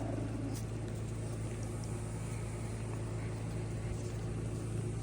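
An engine running at a steady speed, a low even hum that does not change.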